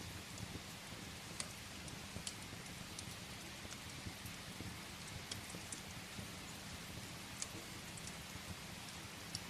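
Steady rain falling against a window, with a low rumble underneath and scattered sharp pops from firewood crackling in a fireplace, a few every couple of seconds.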